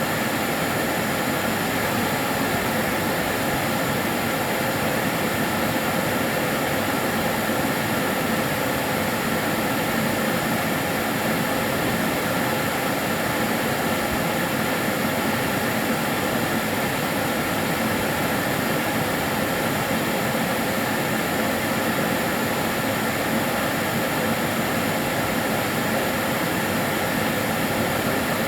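Kärcher DS 6 Premium water-filter vacuum cleaner running steadily: an even rushing hiss with a few steady tones in it.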